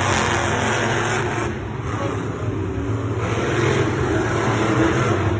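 Monster truck engines running, a steady low drone that dips slightly about one and a half seconds in.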